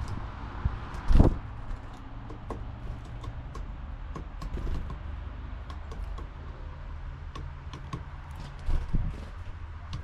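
Small birds at a garden feeder: scattered sharp ticks of pecking and hopping on the feeder, with one louder thump about a second in, over a steady low rumble.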